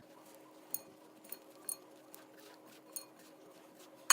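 Light clinks and clicks against a mixing bowl, about six spread unevenly, as butter is worked into flour for pie crust dough, over a faint steady hum.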